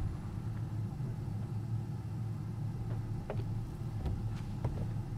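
Car engine idling while the car stands still, a steady low hum, with a few faint ticks in the second half.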